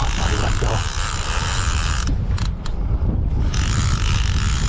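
Fishing reel working during the fight with a big striped bass, a mechanical clicking and creaking of the reel under load, over a steady rumble of wind on the microphone.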